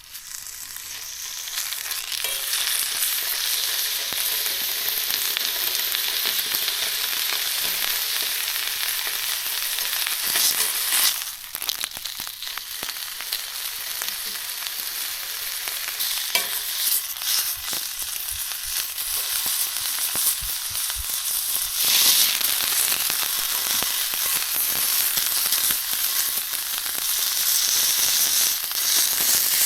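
Food sizzling as it fries in a hot pan, a dense steady hiss. It drops sharply about eleven seconds in and slowly builds again.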